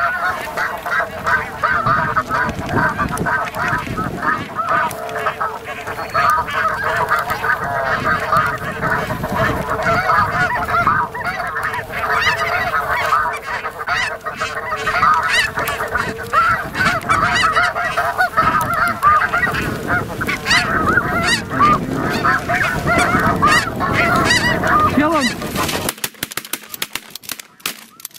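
A large flock of snow geese calling, a dense chorus of many overlapping honks and yelps, which cuts off suddenly near the end.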